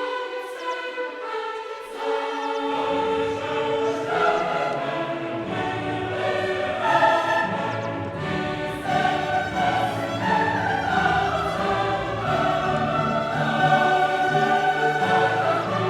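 Classical choral music: a choir singing with an orchestra. The low instruments come in about two and a half seconds in.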